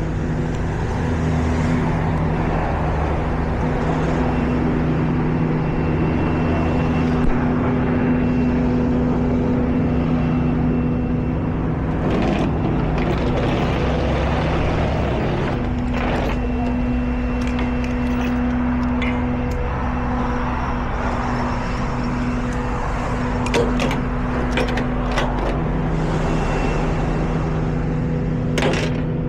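Tow truck engine running steadily, with a few sharp clicks and clanks partway through and near the end.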